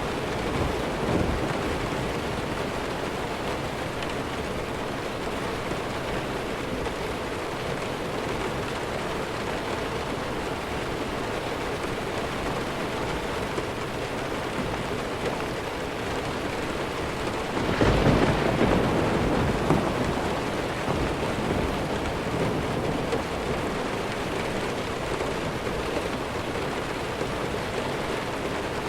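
Steady heavy rainfall, with a rumble of thunder rising about two-thirds of the way through and fading over a few seconds.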